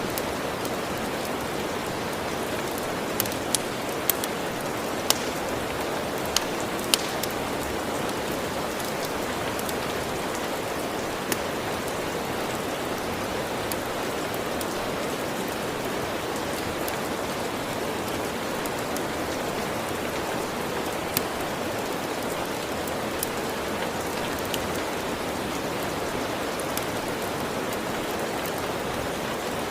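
Steady rain falling, with scattered sharp pops and crackles of a log fire: a quick cluster of several in the first seven seconds, then only a few single pops.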